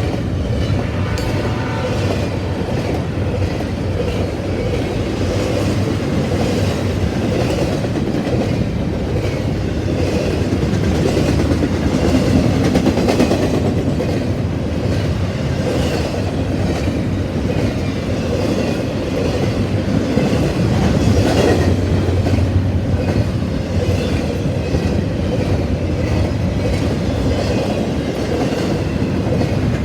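A Canadian Pacific train rolling past in a steady rumble, its wheels clicking over the rail joints again and again.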